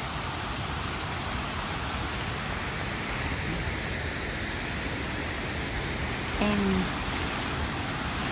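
Steady rushing of water pouring over a waterfall. About six and a half seconds in, a short pitched sound cuts in for about half a second.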